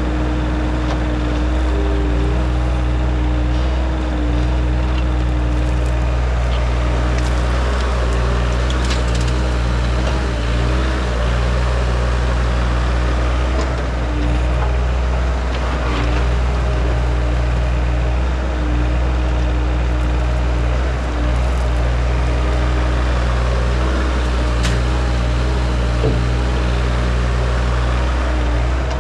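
Excavating machine's engine running steadily while digging, with a wavering whine over the engine and scattered knocks and scrapes from the work.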